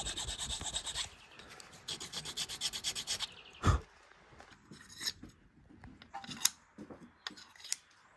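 Hand filing: fast, even back-and-forth rasping strokes in two short runs, then a single knock and a few scattered clicks.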